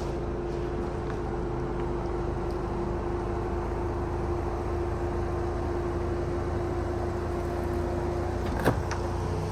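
Subaru Outback Onyx XT's turbocharged flat-four engine running at low, steady revs as the car crawls up a dirt slope, a low hum with a constant whine. A single sharp knock near the end.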